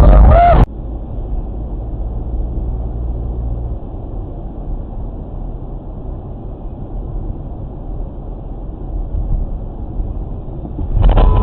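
Steady low rumble of a car driving. A loud sound cuts off abruptly about half a second in, and another loud sound starts near the end.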